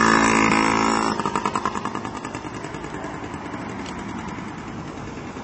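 Yamaha PW50's small two-stroke single engine running under way, loud as the bike passes close and then fading steadily as it rides off.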